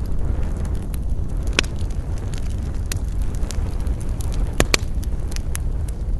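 Wood campfire burning: a steady low rush with scattered sharp crackles and pops, the loudest two close together about four and a half seconds in.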